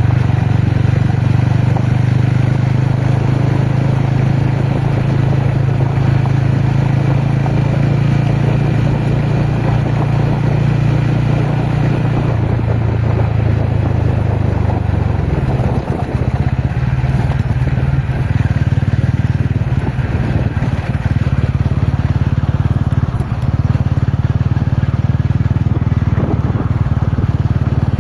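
TVS Ronin motorcycle's single-cylinder engine running steadily under way, its note shifting about halfway through as the throttle changes, with a couple of brief dips.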